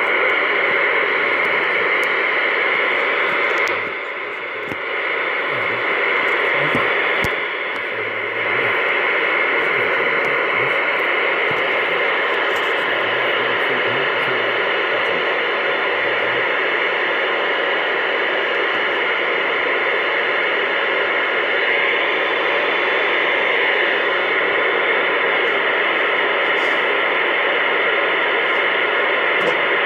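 CB radio static: a loud, steady hiss through the radio's speaker with no voice on the channel, dipping briefly about four seconds in and again around eight seconds.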